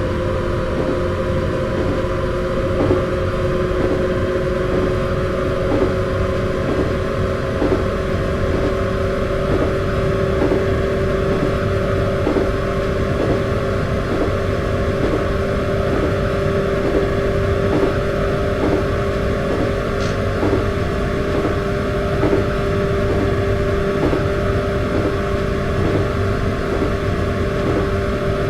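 Running sound of a resistance-controlled electric train: traction motors and gears whining in a steady two-note hum that creeps slightly up in pitch, over a low rumble with a regular ticking roughly every three-quarters of a second.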